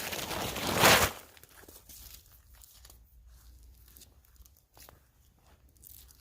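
A loud rustling, crunching noise lasting about a second, then faint scattered crackles and clicks.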